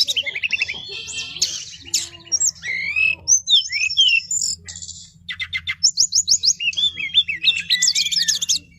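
Several brown-chested jungle flycatchers singing over one another in long, rolling runs of quick trills, rapid repeated notes and whistled glides, over a steady low hum.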